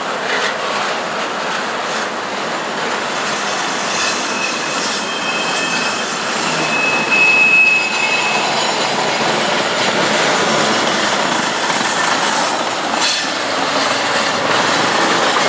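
Intermodal freight train's cars rolling slowly past on the rails, about 15 miles an hour. A thin, high wheel squeal rises over the steady rolling noise from about five to eight seconds in.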